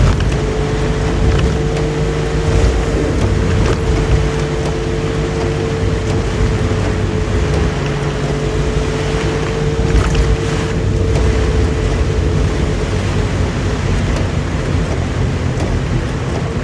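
Suzuki Jimny SJ30's small three-cylinder two-stroke engine running steadily while the vehicle drives, with a steady whine held throughout over a continuous hiss.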